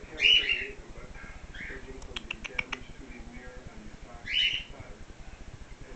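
Five-week-old cockatiel chick calling: short, harsh chirps, loud ones near the start and about four seconds in with a softer one between. A quick run of sharp clicks comes about two seconds in.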